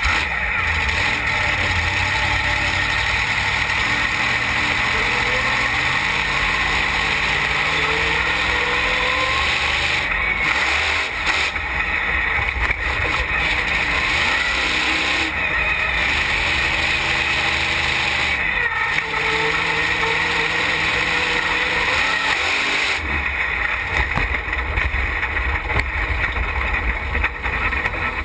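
Wheelie car's engine running loud, heard from inside the open roll-caged cab, its pitch rising and falling several times as the throttle is worked.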